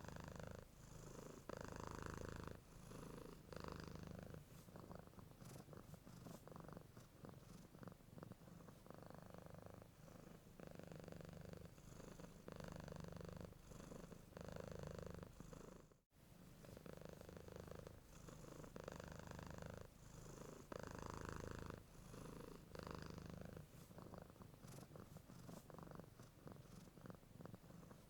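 Domestic cat purring steadily and faintly, swelling and easing with each breath in a regular rhythm. The sound cuts out for a split second about sixteen seconds in, then resumes.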